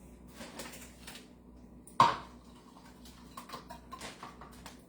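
Kitchen dishes and utensils being handled: one sharp clink that rings briefly about two seconds in, with light knocks and clicks around it.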